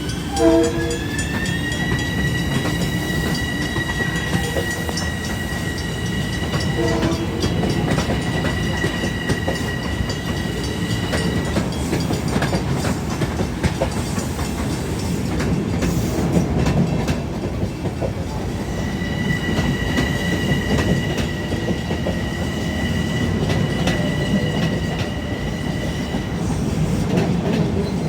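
Long Island Rail Road M7 electric train passing, wheels clattering over the rail joints. A high whine rises in pitch over the first couple of seconds, holds steady, drops away midway and comes back near the end.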